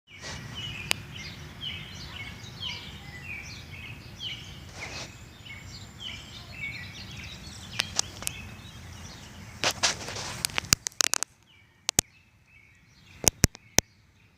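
Small birds chirping over and over above a low background rumble, with a series of sharp clicks in the second half. The rumble and chirping stop about eleven seconds in, leaving only a few clicks.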